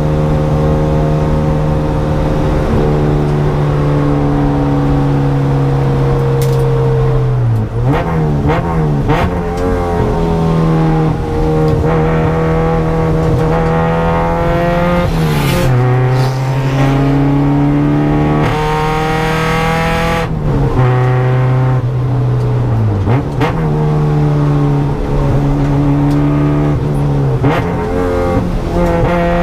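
EG Honda Civic track car's engine heard from inside the cabin at speed on a circuit, held at high revs on the straights. Three times, about 8, 16 and 23 seconds in, the revs fall sharply and then climb again.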